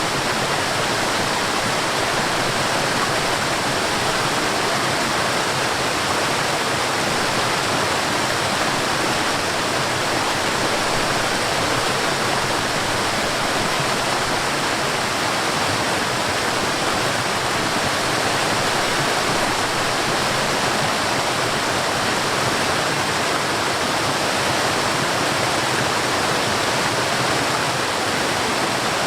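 Forest waterfall: water falling and rushing in a steady, dense hiss with no breaks.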